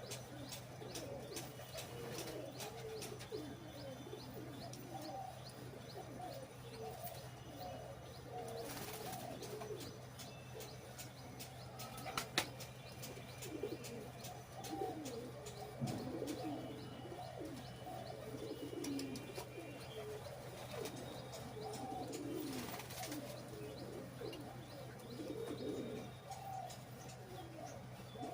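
A flock of pigeons cooing, many low coos overlapping without a break, over a steady low hum. There are a few brief noisy rustles along the way, and one sharp click about twelve seconds in.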